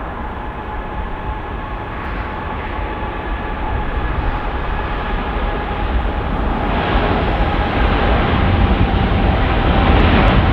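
Jet airliner engine noise: a deep rumble with a steady whine on top, growing steadily louder as the aircraft comes nearer.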